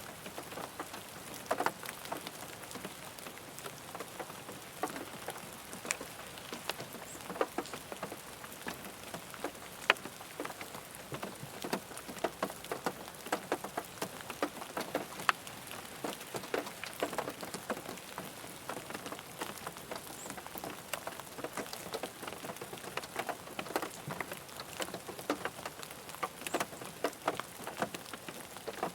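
Rain falling on a car's roof and body, heard from inside the car: a steady hiss of rain with many irregular individual drops ticking and pattering on the metal and glass.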